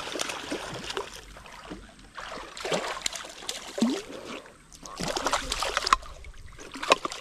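Shallow creek water splashing and sloshing in irregular bursts, with a couple of sharper splashes near the end.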